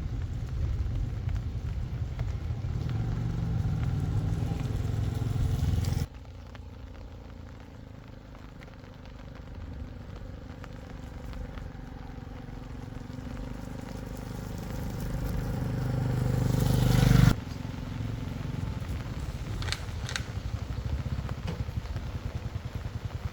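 A motor vehicle's engine and road noise running steadily, in several abruptly cut clips: a quieter stretch swells louder and cuts off sharply, and a few light clicks come near the end.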